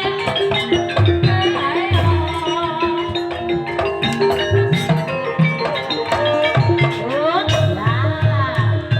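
Gamelan music in campursari style, played live for an ebeg dance. Mallet-struck keyed instruments ring over a recurring low drum beat, with some sliding pitches mixed in.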